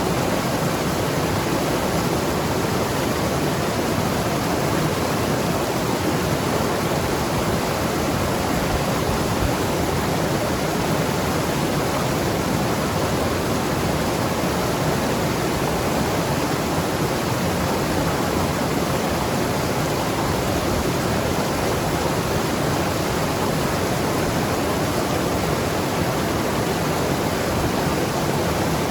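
Mountain river rushing over rocks, a steady full rush of water without pauses or changes.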